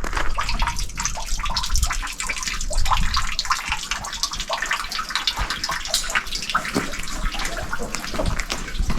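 Water running and splashing, a steady busy spatter.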